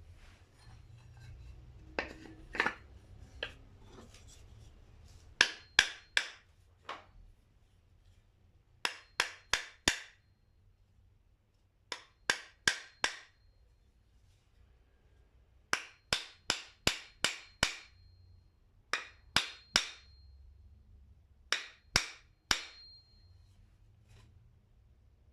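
Hammer blows in quick bursts of three to five, with pauses of a second or two between bursts; several blows leave a brief high metallic ring.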